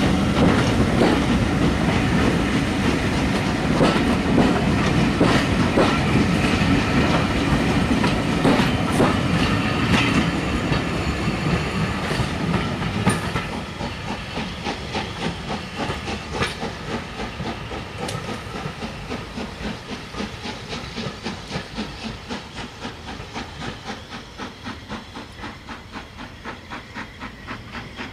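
Railway coaches rolling past, their wheels clickety-clacking steadily over the rail joints. About halfway through the sound drops sharply as the last coach passes, and the regular clicking fades as the train draws away.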